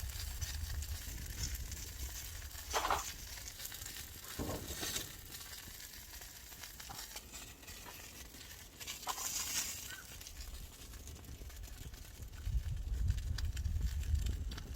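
Dakgalbi sizzling on a hot elvan-stone grill plate over a wood fire, with a few short knocks and a low rumble that swells near the end.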